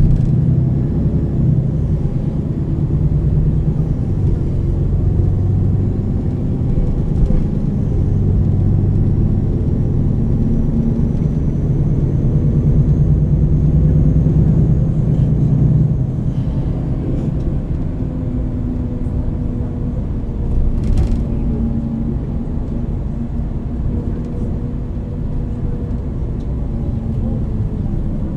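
Engine and drivetrain of a MAN NL 323 Euro 6 city bus with a ZF EcoLife automatic gearbox, heard from on board as the bus drives. The engine note slowly rises and falls as the bus pulls and the gearbox changes through its ratios.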